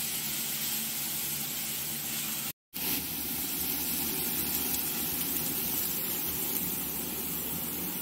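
Red amaranth greens sizzling in hot mustard oil in a kadai: a steady hiss that cuts out briefly about two and a half seconds in.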